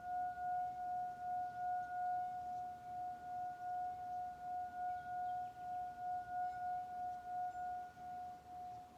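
Singing bowl ringing with one steady tone and a fainter higher overtone, its loudness wobbling two or three times a second as it slowly dies away. The higher overtone fades out shortly before the end. Faint bird chirps now and then.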